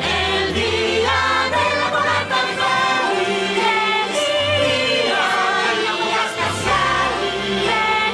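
A choir singing a sustained passage with orchestral backing, the closing section of a Spanish-language Christmas song.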